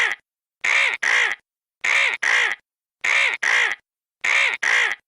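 Bird call given as a vulture's: harsh, raspy calls in pairs, the pair repeating evenly about every 1.2 seconds, four times.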